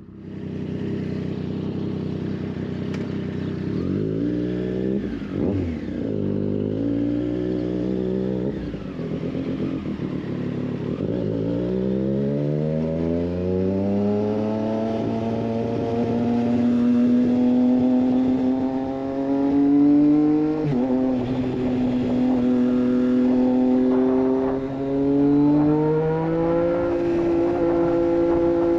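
Triumph Street Triple 765 RS inline three-cylinder engine through a Racefit Growler full exhaust, accelerating hard. Pitch climbs through the gears with short drops at each upshift, then holds mostly steady at speed with a couple more shifts near the end.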